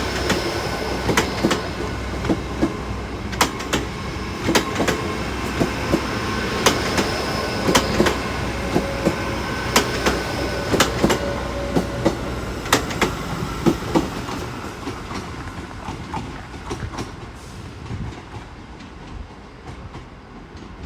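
Class 158 diesel multiple unit moving through the station. Its wheels click over rail joints and points, with a steady engine rumble underneath, and the sound fades over the last several seconds as it draws away.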